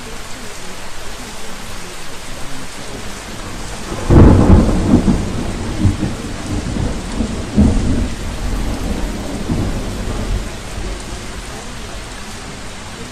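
Steady rain with a loud roll of thunder that breaks about four seconds in and rumbles on in several surges for some seconds before fading.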